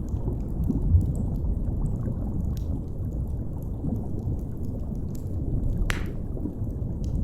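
Steady low underwater rumble of deep-sea ambience, with faint scattered crackles of a fire and one sharper pop about six seconds in.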